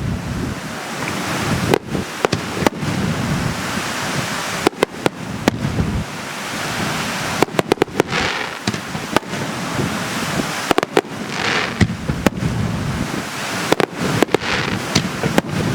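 Aerial fireworks display: sharp bangs in quick clusters every two to three seconds, with a few crackling, hissing bursts, around seconds eight, eleven and fifteen, over a steady background rumble.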